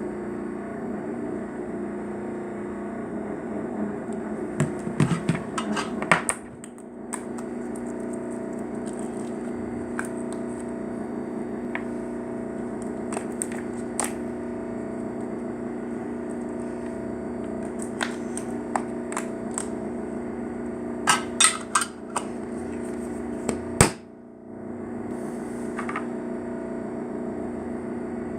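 Slime being poked and squeezed, giving sharp clicking pops in several clusters over a steady electrical hum.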